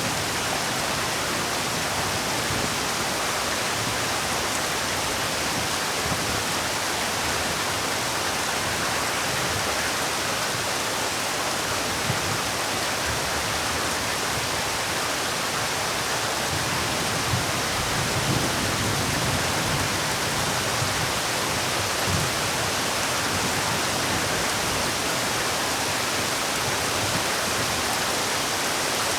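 Heavy rain falling in a steady, even hiss, with a few soft low thuds from heavier drops in the second half.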